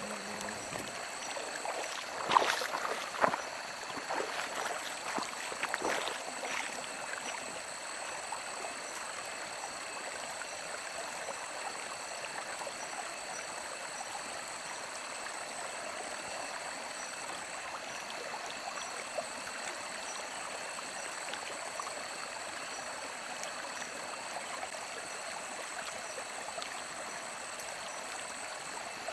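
Stream flowing with a steady rush of water, with a few sharp knocks in the first several seconds.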